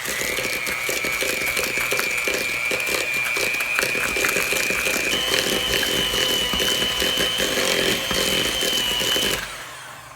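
Electric kitchen mixer creaming butter with brown and white sugar: a steady motor whine that steps up in pitch about halfway through, then switches off and winds down near the end.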